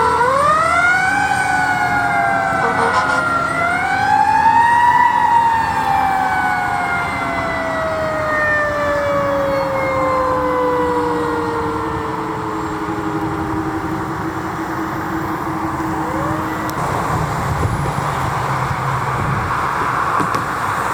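Fire engine siren wailing. It rises in pitch twice in the first five seconds, then falls slowly and steadily over about ten seconds until it dies out around sixteen seconds in. Low engine and road noise of the vehicle is left after it.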